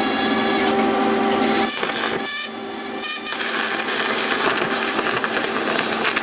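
Electric grinder grinding down a rough weld bead on steel. It starts suddenly and runs as a steady whine with a harsh hiss, dipping briefly twice a few seconds in as it bites into the metal.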